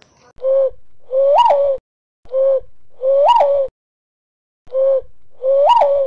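A bird calling three times in an even rhythm, each call a short low note followed by a longer note that swells up in pitch in the middle and falls back.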